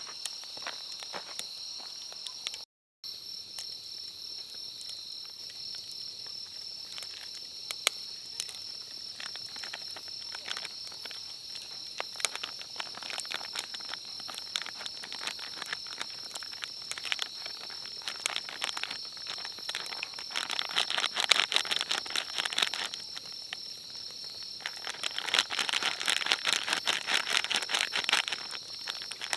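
Insects chirring in a steady high drone, with many sharp clicks and crackles that grow denser and louder in the second half. The sound cuts out briefly about three seconds in.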